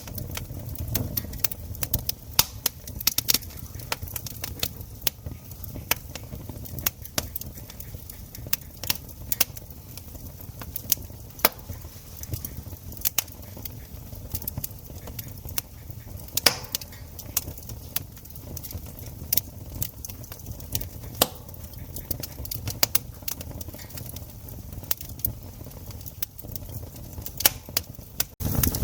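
Campfire crackling: irregular sharp pops and snaps, some louder than others, over a steady low rumble.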